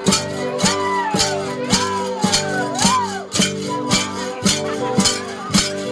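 Central Highlands gong ensemble (cồng chiêng) playing: struck gongs in a steady beat of about two strokes a second, their tones ringing on and overlapping.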